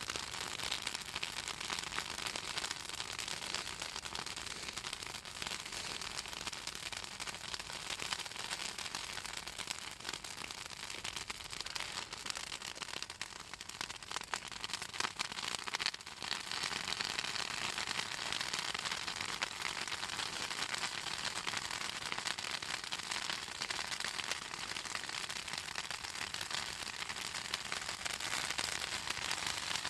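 A bonfire of pruned southern magnolia branches crackling steadily, the oil in the wood popping in a dense, continuous stream of small snaps over a soft hiss.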